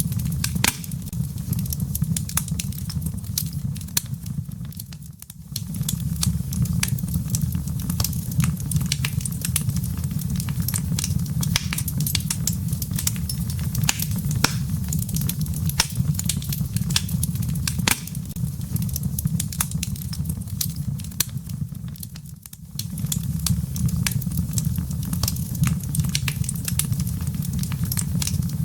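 Wood fire in a fireplace crackling: a dense run of sharp pops and snaps from the burning embers over a steady low rumble of flame. The sound dips briefly about five seconds in and again a little after twenty seconds.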